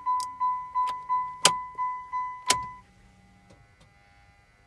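A 1993 Chrysler Town & Country's dashboard warning chime: a single tone repeating about three times a second, each note fading, which stops about three seconds in. Two sharp clicks sound during the chiming, the louder near the middle.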